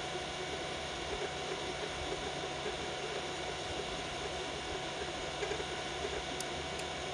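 Biqu BX 3D printer printing at 120 mm/s: its stepper motors buzz and flutter with the print-head moves over the steady whir of its cooling fans.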